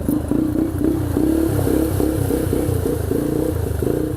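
Yamaha TT-R125LE dirt bike's single-cylinder four-stroke engine running while ridden, its pitch rising and falling as the throttle is worked on and off.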